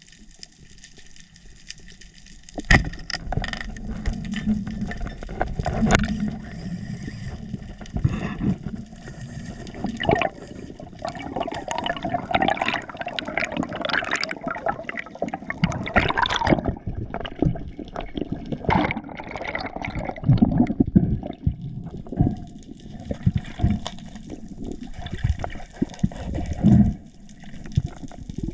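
Water sloshing and gurgling around an underwater camera, starting suddenly a few seconds in, with many sharp knocks and clicks through it.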